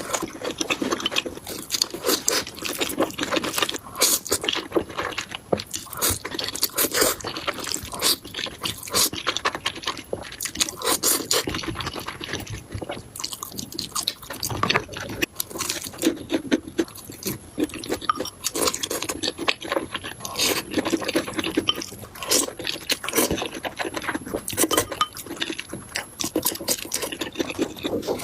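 Close-miked eating of spicy instant noodles: irregular wet slurps, smacks and chewing, with many short clicks throughout.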